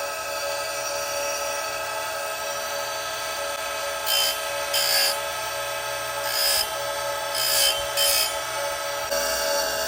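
Oregon 410-120 bench chain grinder running with a steady whine. Its CBN wheel is brought down onto a saw chain cutter in five short grinding swipes about halfway through.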